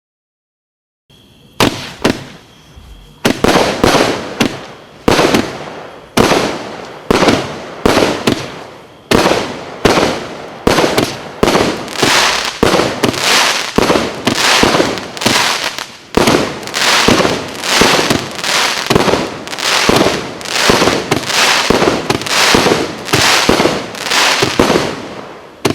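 Hallmark 'The Bully' firework firing a rapid string of loud shots, about two a second, each with a short echoing tail, after a quiet first second.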